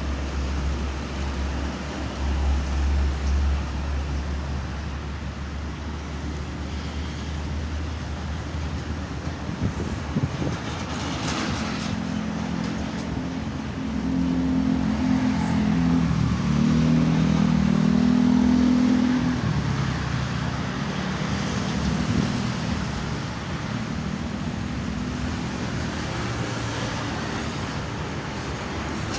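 Road traffic on a busy highway: a steady rumble of passing vehicles. A vehicle's engine drone comes through loudest around the middle, shifting in pitch as it passes.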